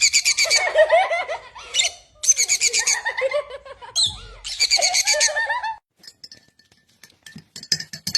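Parrot making rapid, laughter-like cackling calls in several bursts, which stop about six seconds in.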